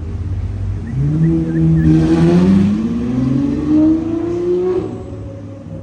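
Car engine accelerating hard, its pitch climbing steadily for about four seconds, then dropping away.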